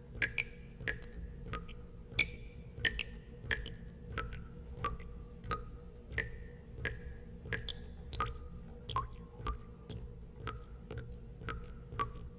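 Water drops falling one at a time into water, each a sharp plink with a short ringing note at a different pitch, about two a second. A low steady hum lies underneath.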